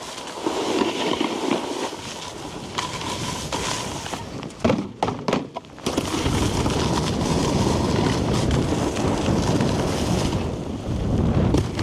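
Snowboard riding over hard, icy, bumpy snow: a rough scraping hiss of the board on the snow, mixed with wind on the microphone. After a brief choppy break, it gets louder and rougher from about six seconds in.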